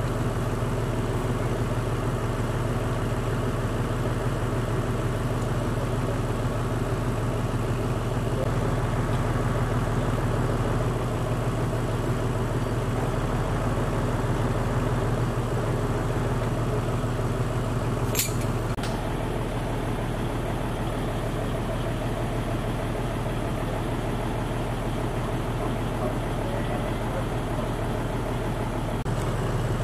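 An engine idling steadily, with one sharp click a little past the middle.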